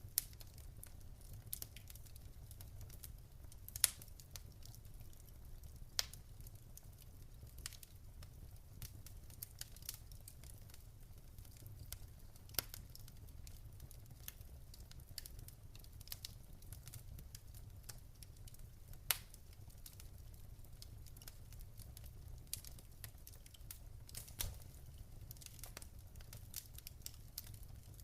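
Wood fire crackling in a fireplace: a steady low rumble with many small ticks and a sharp pop every few seconds.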